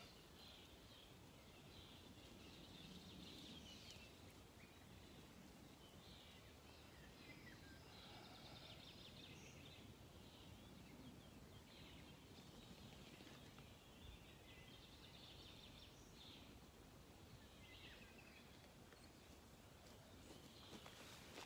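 Near silence: faint, scattered songbird chirps and calls over a quiet outdoor background hiss.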